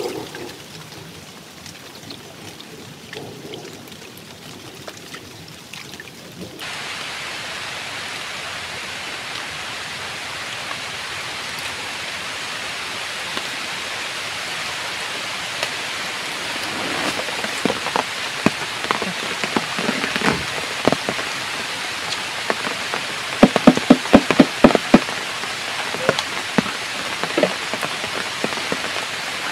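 Heavy rain falling in a steady hiss, quieter for the first six seconds and then abruptly louder. Through the second half, sharp close taps of drops come in, with a burst of loud ones near the end.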